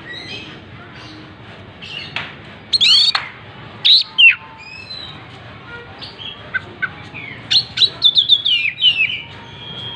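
Oriental magpie-robin singing: loud whistled phrases about three and four seconds in, then a quick run of short falling notes near the end.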